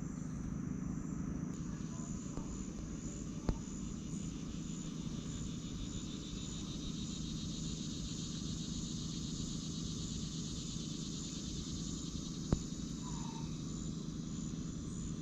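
Evening chorus of crickets: a steady, pulsing high trill over a low steady hum, with two sharp clicks, one about three and a half seconds in and one near the end.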